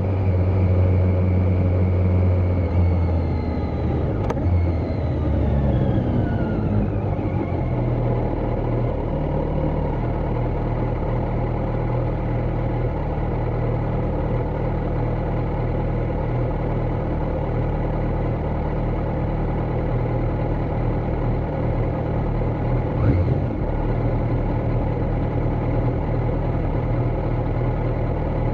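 2020 Kawasaki Z900's inline-four engine, with its catalytic converter removed, coming down in revs over the first several seconds and then idling steadily. There is one short blip about two-thirds of the way through.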